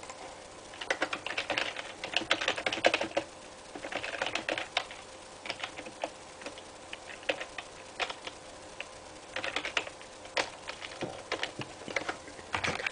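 Typing on a computer keyboard: short clicks in runs of about a second with brief pauses between, as a message is typed out.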